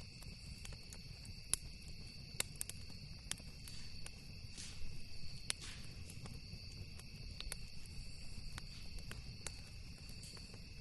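Campfire wood crackling, with irregular sharp pops, over a steady high trill of crickets and a low rumble.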